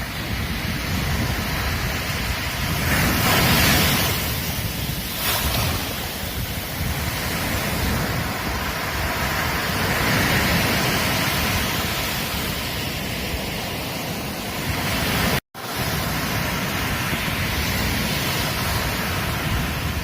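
Ocean surf washing on a beach, a continuous rushing wash that swells and ebbs as waves break, with the loudest wave about three to four seconds in. The sound cuts out for an instant about three-quarters of the way through.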